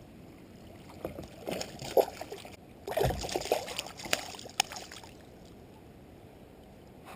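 Water splashing and sloshing at a kayak, with several sharp knocks against the hull, over a few seconds before it settles.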